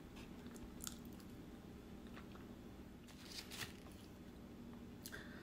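A person chewing a mouthful of food, faint, with a few soft mouth clicks over a low steady room hum.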